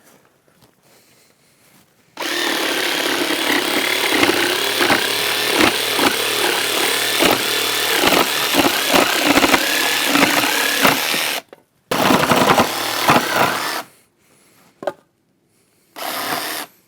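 Battery-powered jigsaw cutting a very hard, dry, old wooden board. The motor starts about two seconds in and runs with its pitch dipping and wavering as the blade labours through the wood. It stops briefly, runs again for a couple of seconds, then gives one short last burst near the end.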